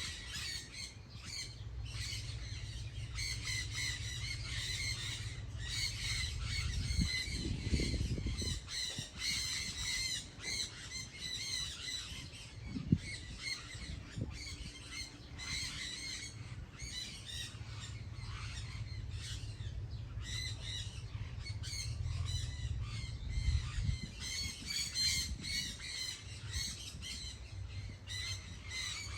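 A flock of birds calling together in a dense, continuous chatter of rapid, harsh, repeated calls. Beneath them runs a steady low rumble, with a few louder low thumps.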